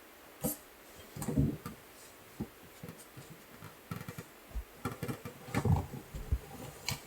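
Scattered clicks, taps and a few low thumps of things being handled and moved about, at an irregular pace.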